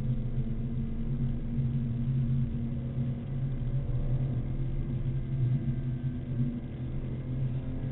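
BMW Z4 M Coupe's 3.2-litre straight-six engine heard from inside the cabin, running at a steady pitch under light, even throttle, with road and tyre noise underneath.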